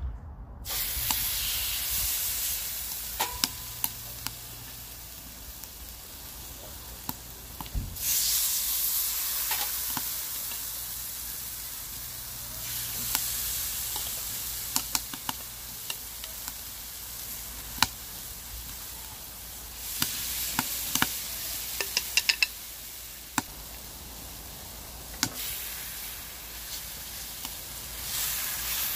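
Marinated pigeon breasts sizzling in hot oil in a black pan over a wood stove. The sizzle flares up louder several times as more pieces are laid in, with sharp clicks of the spatula and metal tongs against the pan.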